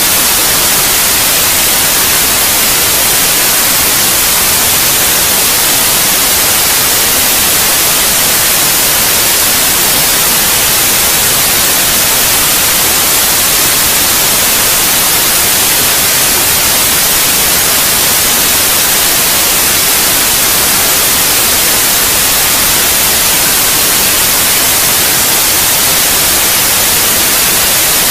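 Continuous white noise: an even, unchanging hiss, strongest in the high treble, played as a sleep sound for babies.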